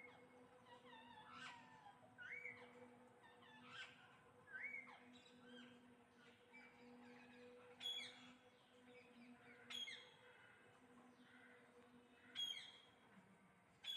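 A flock of parrots calling, fairly faint: curling, rising-and-falling whistled calls in the first half, then sharp downward screeches about every two seconds.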